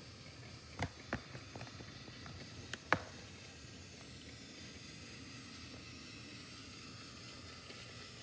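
Small battery-powered toy train running faintly across a floor, a low steady motor hum, with a few light clicks about a second in and again near three seconds.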